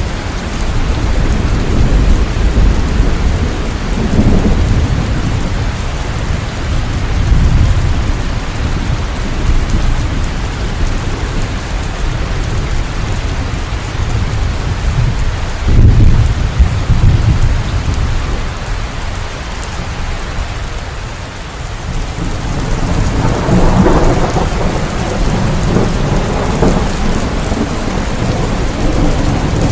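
Steady heavy rain with rolling thunder that swells and fades several times; the loudest crack of thunder comes about halfway through.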